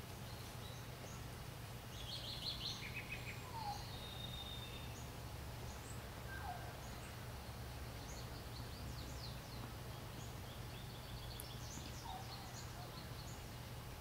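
Small birds chirping in short high notes, with a burst about two seconds in and a run of chirps in the second half, over a steady low hum.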